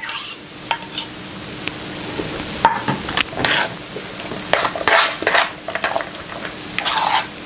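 A spoon scraping and stirring in a bowl of mashed potatoes as sour cream is added, a run of irregular scraping strokes with a sharp knock about two and a half seconds in.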